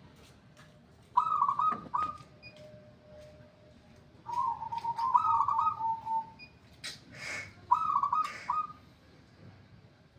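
A zebra dove (perkutut) singing three rolling cooing phrases of quick repeated notes, a few seconds apart; the bird is in full song. A short rushing noise falls between the second and third phrases.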